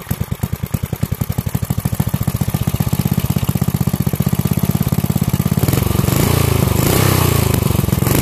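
5 hp Briggs & Stratton single-cylinder engine running just after starting. Its separate firing beats quicken steadily until, about six seconds in, it picks up to a faster, fuller run.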